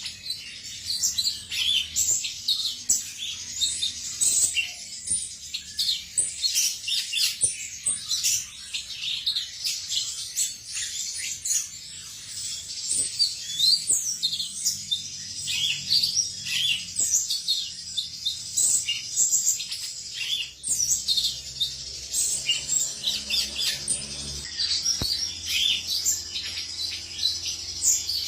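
Male cucak cungkok singing: a rapid, continuous run of short, high chirps and twitters.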